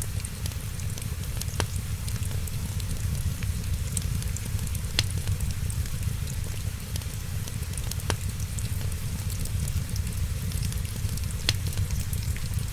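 Wood fire crackling steadily with many small ticks over a low rumble, and four sharp, louder pops spaced about three seconds apart.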